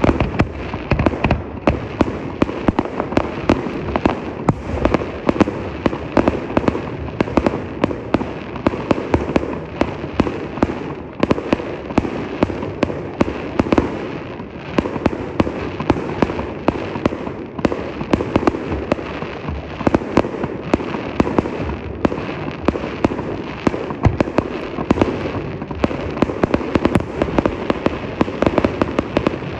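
Fireworks going off in a dense, continuous barrage of rapid, irregular pops and bangs.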